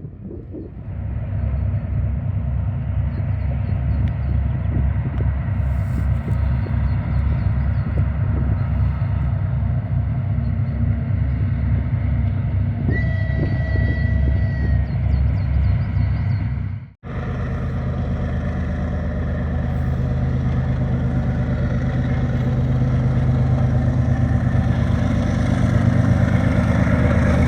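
Diesel locomotive engine running with a steady, pulsing low throb, growing slightly louder near the end.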